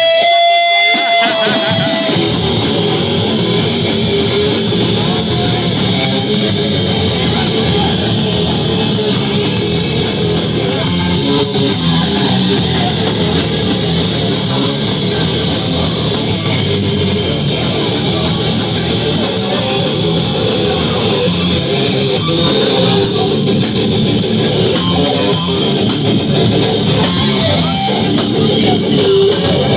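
Live rock band playing loud, with electric guitars and a drum kit. It opens on a single held guitar note for about two seconds before the full band comes in and plays steadily on.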